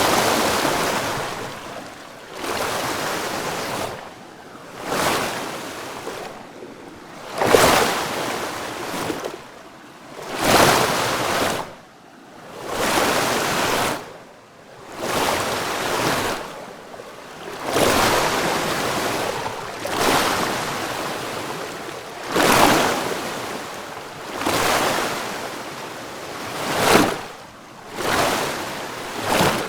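Rushing water in repeated surges, each swelling up and falling away, roughly every two to three seconds.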